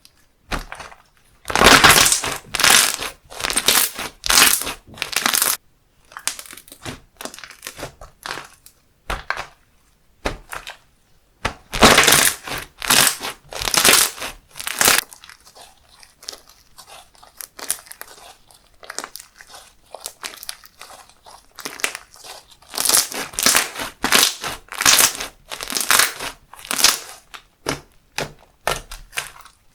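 Handmade slime squished and pressed by hand, making rapid crackling, crunchy pops. The pops come in three louder runs of a few seconds each, with softer crackles between them.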